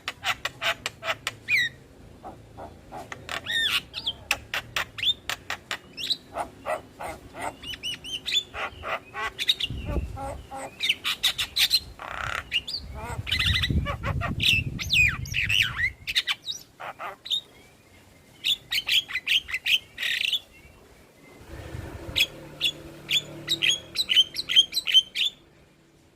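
Javan myna calling: rapid runs of short, sharp chirping notes mixed with harsh squawks, coming in bursts with brief pauses.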